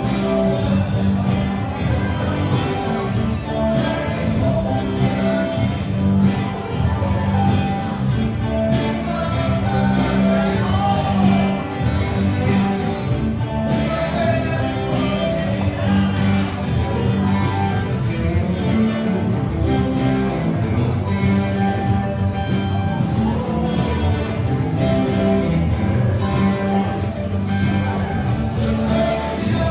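Live rock band playing a song: singing over electric guitar, bass and a steady drum beat.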